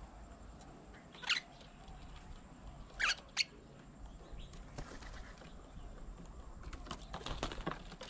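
Birds at a feeding table: a few short, sharp chirps, one about a second in and two close together around three seconds in, with fainter bird sounds near the end over a quiet outdoor background.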